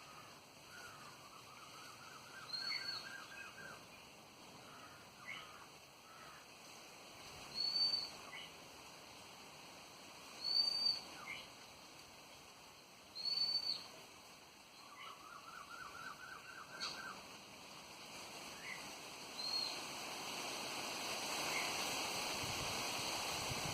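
Wild birds calling: a short, high, downslurred whistle repeated five times every few seconds, and twice a lower rapid trill of quick notes lasting about two seconds. Wind noise builds over the last few seconds.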